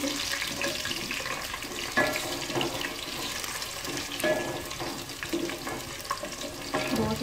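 Sliced potatoes and browned onions frying in hot oil in a metal pot, a steady sizzle, stirred with a wooden spoon.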